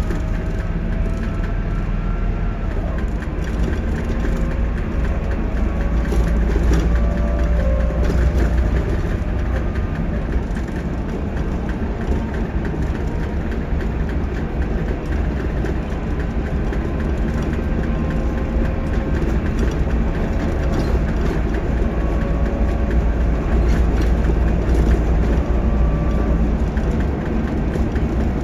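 Scania K230UB bus engine and ZF Ecomat 6HP504C automatic gearbox under acceleration: a steady low rumble with a whine that rises in pitch and falls back several times.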